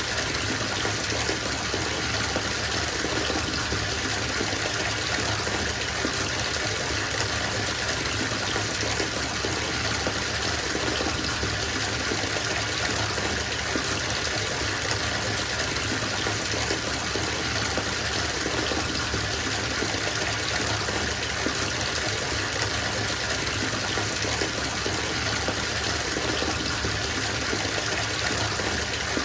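Bathtub filling from the tap: a steady gush of water pouring into the tub, an even, unbroken rush.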